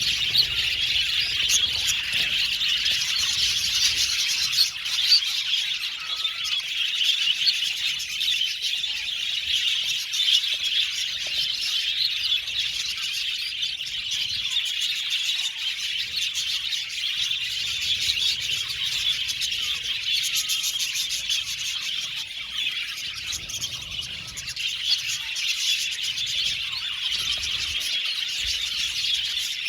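A flock of budgerigars chirping and chattering in a steady, dense stream of high overlapping calls.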